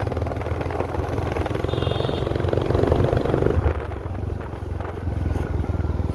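Vehicle engine running steadily on the move, a low even drone with a slight dip in level around the middle.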